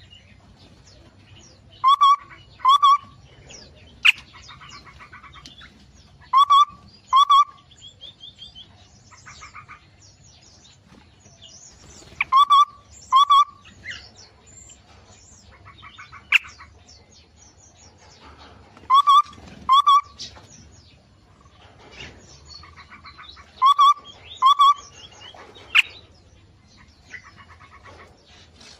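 Aviary birds calling and chirping. A loud call of two short notes repeats about every five seconds over softer twittering.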